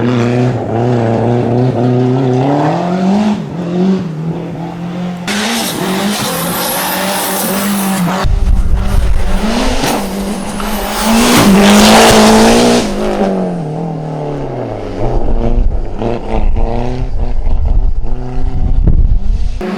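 Race car engine revving hard, its pitch rising and falling again and again through quick gear changes, with stretches of harsh tyre noise in the middle; the loudest moment is about twelve seconds in.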